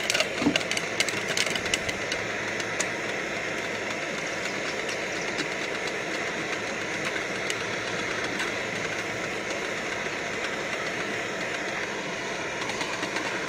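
Popcorn kernels popping in a metal canteen cup, with a quick run of pops in the first three seconds that thins out to a few stray ones, meaning the batch is nearly done. Beneath them the camp stove's burner keeps up a steady hiss.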